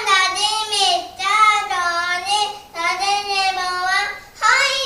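Young children's voices chanting words in a high, sing-song, drawn-out way, in about four phrases with short breaks between them.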